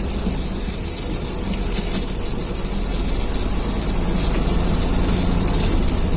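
Heavy vehicle engine running steadily at low revs, a constant low rumble that swells slightly over the last few seconds.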